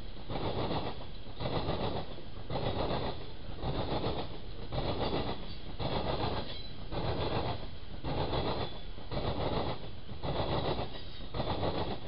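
Railroad cars rolling past, their wheels clattering over the rail joints in a steady, even clickety-clack of a little more than one beat a second.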